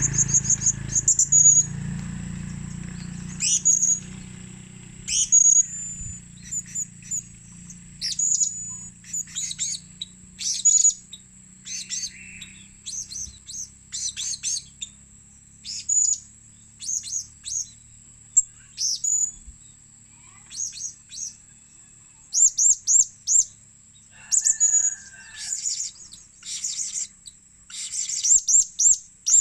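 Blue-crowned hanging parrot (serindit) calling: short, high-pitched chirps given in quick runs of several notes with pauses between, over a steady high thin whine.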